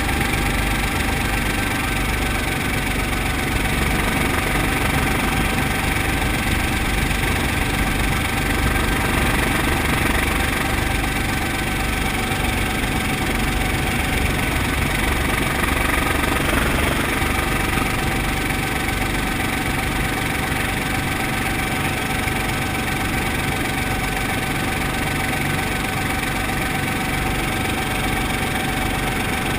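Brantly B2B helicopter's four-cylinder Lycoming piston engine and rotors running steadily, with a constant whine over the engine drone.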